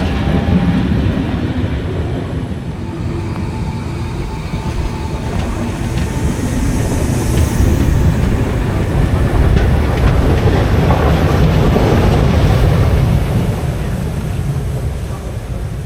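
Train moving on the rails: a heavy rumble with wheel clatter that grows louder past the middle and eases off near the end.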